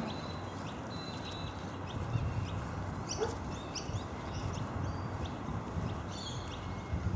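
Birds calling: many short, high chirps and whistles, some in quick runs, over a steady background rush.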